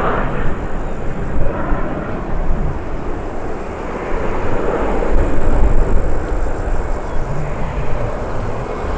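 Jet airliner engines, a steady broad rumble with hiss.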